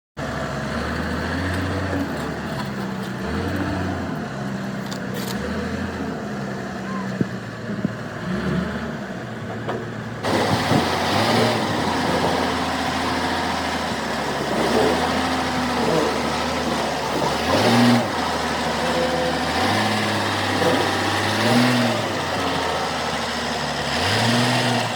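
Large engine running, its speed rising and falling again and again, with a sudden change in the sound about ten seconds in.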